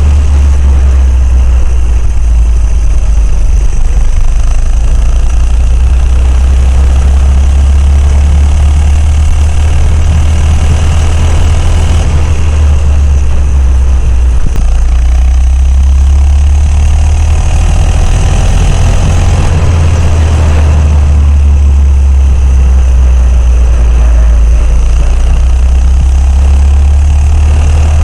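Coleman CC100X minibike's 100cc single-cylinder four-stroke engine running while being ridden, its pitch rising and falling with the throttle, over a loud, steady low rumble.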